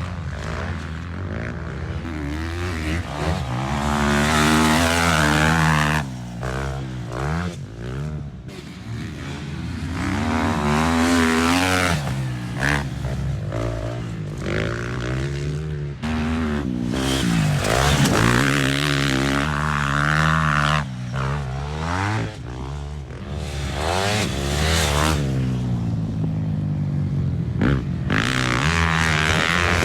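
Motocross bikes out on the track, their engines revving up and down as the riders throttle on and off. The engine sound swells and fades several times as the bikes come past.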